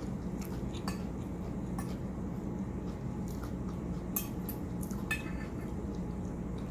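Cutlery clinking against a dish several times while eating, light separate taps scattered through, the sharpest about four and five seconds in, over a steady low hum.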